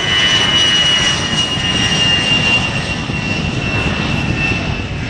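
A-10 Thunderbolt II's twin TF34 turbofan engines running loud, with a high-pitched whine that slowly falls in pitch over a dense rumble.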